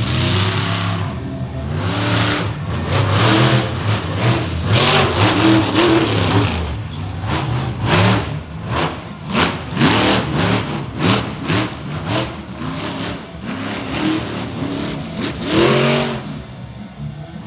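Monster truck engine revving hard over and over, its pitch climbing and dropping with each stab of the throttle.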